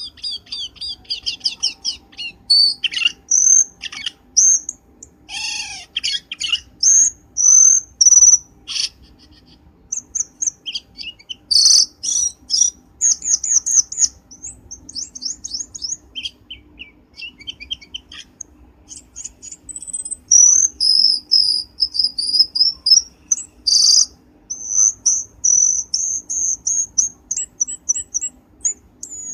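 Cucak keling bird calling: a varied, continuous run of sharp high chirps, rapid trills and held whistled notes, as used in a bird-trapping lure recording.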